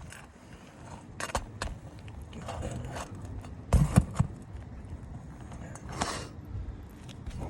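Irregular sharp knocks and clicks with scraping and rustling from hand work on a 3-tab asphalt shingle roof, the loudest a quick run of three knocks about four seconds in and a longer scrape about six seconds in.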